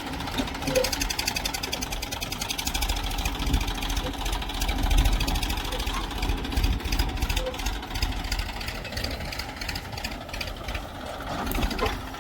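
Diesel engine of heavy machinery running steadily with rapid, even firing pulses, swelling briefly about five seconds in.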